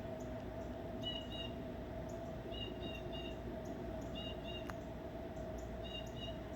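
A small bird calling: a quick burst of two or three high chirps, repeated four times about every one and a half seconds, over a steady low hum.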